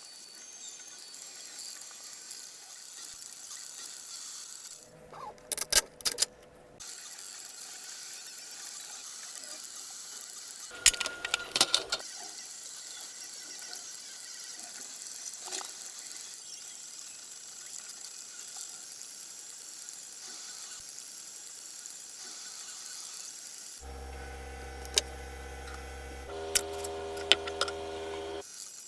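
A steady hiss broken by two short clusters of clicks and knocks. Near the end comes a small motor's steady humming whine, which changes to a different pitch partway through and then stops.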